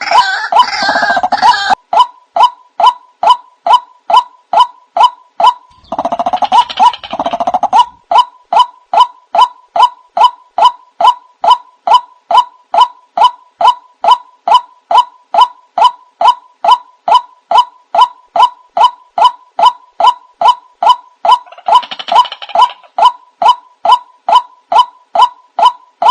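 White-breasted waterhen lure call: a short, loud note repeated about twice a second without pause. Three times, near the start, around a quarter of the way in and again near the end, a denser, harsher stretch of calling joins it for a second or two.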